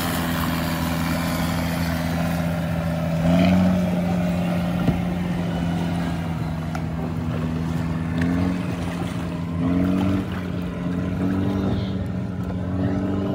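Motorboat engine running steadily, its hum rising briefly in pitch a few times as the throttle changes, over a constant rush of wind and water.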